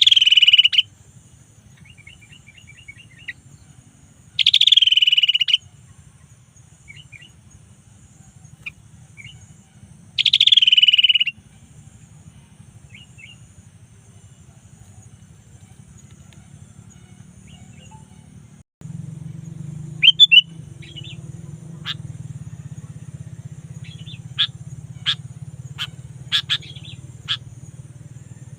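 Sooty-headed bulbul (kutilang) calling: three loud, falling calls about five seconds apart, each about a second long, with softer short chirps between them. After a break about two-thirds through, a run of short, sharp chip notes over a steady low hum.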